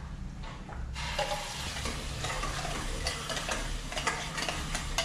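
Ginger, garlic and onion paste sizzling as it goes into hot peanut oil and ghee with whole spices in a pan, the sizzle setting in about a second in, while a spoon stirs it.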